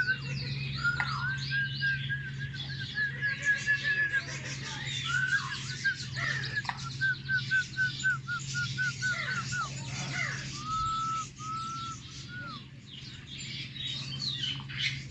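Many birds calling at once, with overlapping chirps and whistled glides and several runs of short, evenly repeated notes, over a steady low hum.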